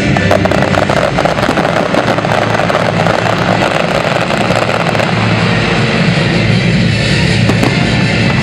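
Fireworks crackling and bursting in a dense run that thins out about five seconds in, over loud rock music.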